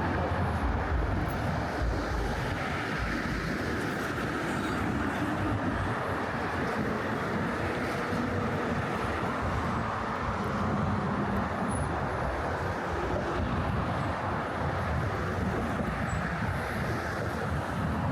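Steady rumble of motor traffic crossing the Brooklyn Bridge roadway, a continuous drone of tyres and engines with faint humming tones.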